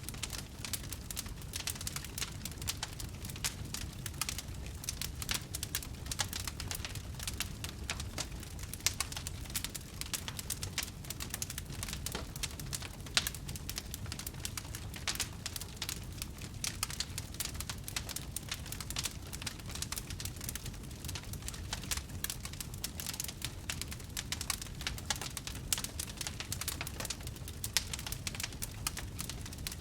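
Wood fire crackling, with dense irregular pops and snaps over a steady low rumble of the flames.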